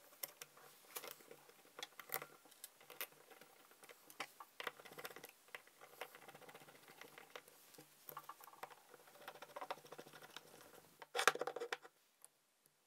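Small metal parts of a Zenith 36 IV carburettor being handled and fitted: scattered light clicks and taps, with a screwdriver turning a screw on the accelerator pump cover. A louder clatter of parts comes near the end.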